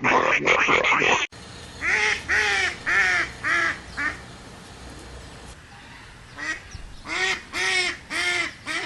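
Waterfowl calling: a run of five short honks, about two a second, then after a pause another run of about six. A different, denser animal sound cuts off abruptly about a second in, before the honks begin.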